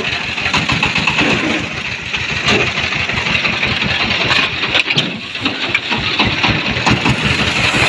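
An engine running steadily, with a rapid low chugging.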